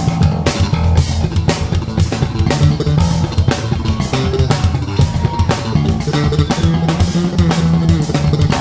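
Live rock band playing: guitar, bass guitar and drum kit keeping a steady beat.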